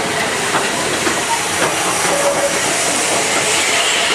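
Steam train running: a steady hiss of steam with irregular clicks and clanks from the wheels and rail joints, and a couple of brief squeals.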